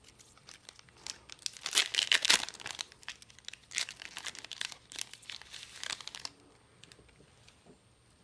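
Final Fantasy Trading Card Game booster pack being torn open, its wrapper crinkling and rustling. Loudest about two seconds in, fading to faint handling after about six seconds.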